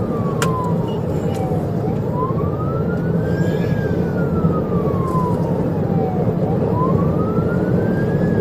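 Police siren wailing in a slow rise and fall, about one cycle every four and a half seconds, over heavy road and engine rumble from a patrol car at highway pursuit speed.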